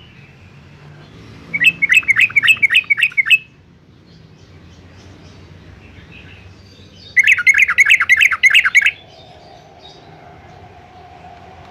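Yellow-vented bulbul singing: two quick runs of chattering notes, each lasting just under two seconds, about five seconds apart.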